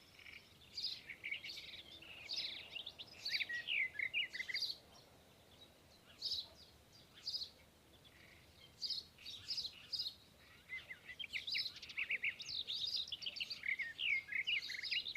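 Small songbirds chirping and twittering in quick high chirps and trills. The calls come in clusters with short pauses and grow busier in the last few seconds.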